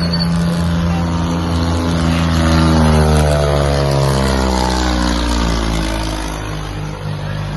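Tractor engine running hard under race load. Its pitch falls steadily over a few seconds around the middle.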